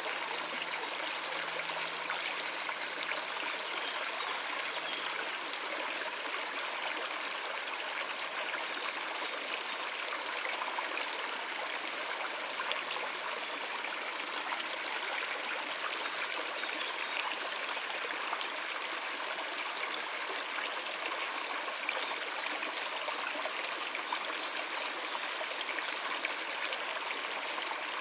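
Stream water running over rocks, a steady rushing and trickling. A few faint high bird chirps come through about a second in and again near the end.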